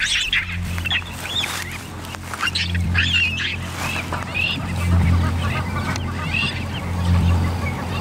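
Birds calling again and again in short arched calls, over a steady low hum.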